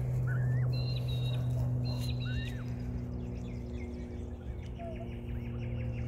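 Birds chirping and whistling in short calls, with a quick run of notes near the end, over a steady low hum.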